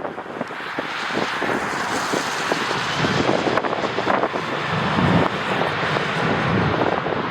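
Jet airliner's engines passing, a broad rushing noise that builds over the first couple of seconds. Gusts of strong wind buffet the microphone throughout.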